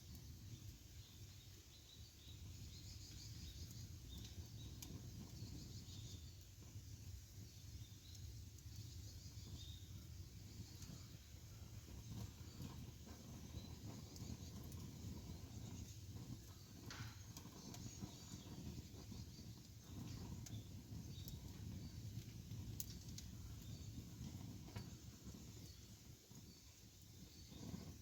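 Campfire burning outdoors: a low steady rumble with sparse, sharp crackles and pops from the burning wood, and faint high chirps in the background.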